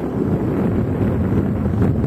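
Wind blowing hard across the microphone: a loud, steady rumbling noise.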